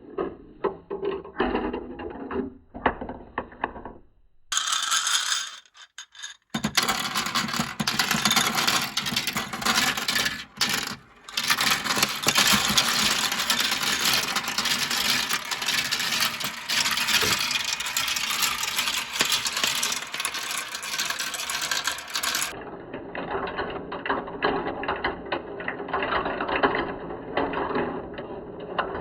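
Many marbles rolling and clattering down plastic marble-run slopes, a dense, rapid run of clicks and rattles. The sound changes abruptly about four seconds in and again near the end, and drops out briefly around six seconds.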